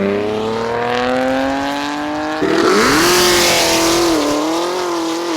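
Modified car engine revving hard as the car accelerates away, its note climbing steadily in pitch. About halfway through the sound changes abruptly: a loud rushing noise joins and the engine note rises again, then holds fairly steady.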